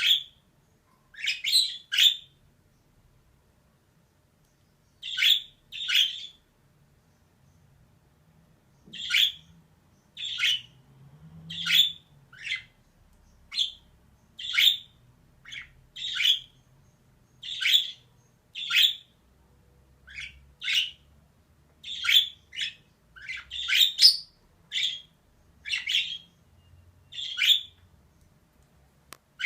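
Female budgerigar giving short, sharp chirping calls one after another, many in quick pairs, with a pause of about three seconds near the start.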